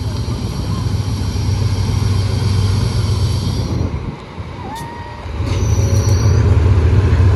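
Diesel train running close by: a steady low engine rumble that drops away for about a second around four seconds in, then comes back.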